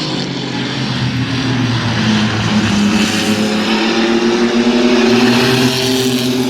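Several mini truck racing engines running together on track, their overlapping pitches rising and falling slightly as the trucks race.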